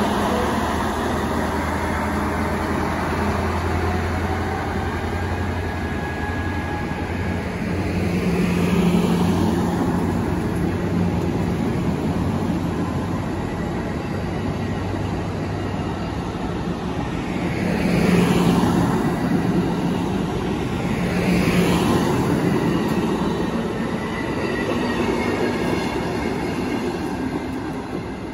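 Amtrak passenger train rolling past: a low steady engine hum from the locomotive at first, then the continuous rumble of wheels on rail as the coaches go by, swelling louder about 9, 18 and 21 seconds in.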